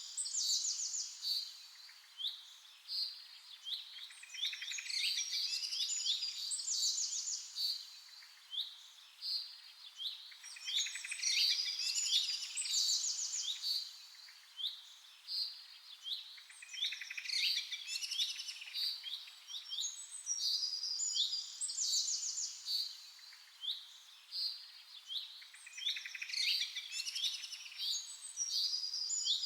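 Birds chirping and trilling, many short calls overlapping, gathering into busier bouts every few seconds.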